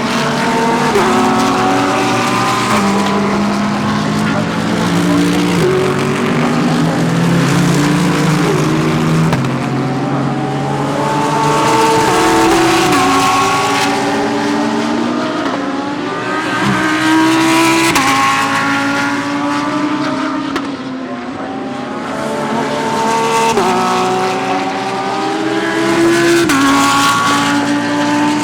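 GT3 race cars passing one after another through a slow corner. Each engine drops in pitch through a series of quick downshifts under braking, then climbs again in steps as it accelerates away through the gears. This comes in several waves as groups of cars go through.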